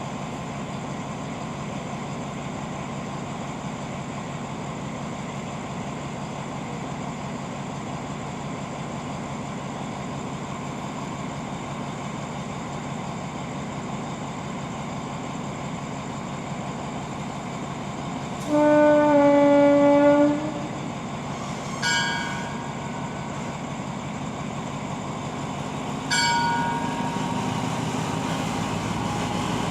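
Diesel train idling with a steady low rumble. About two-thirds of the way through, a train horn sounds loudly for about two seconds, its pitch dropping slightly at the end. Two shorter, higher horn toots follow, and the rumble grows louder near the end.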